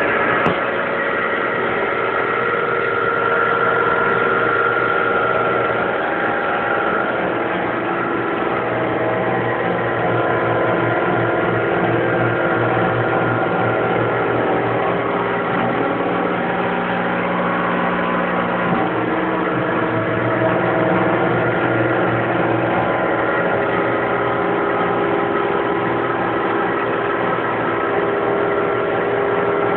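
Stepper motors of a DIY CNC machine running under its controller, a whine of several steady tones that changes pitch every few seconds as the moves change speed.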